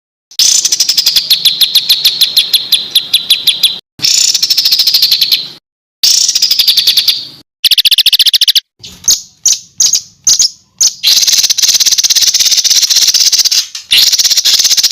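Songbird 'masteran' training recording: fast, harsh bursts of song, rapid rattling trills of repeated high notes, cut together clip after clip with short silent breaks between them.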